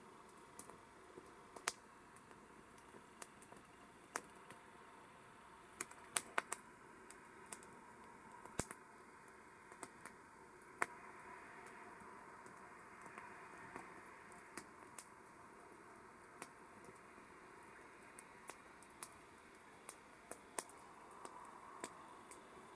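Campfire burning: wood crackling with irregular sharp pops, some louder than others, over a faint steady hiss of the flames.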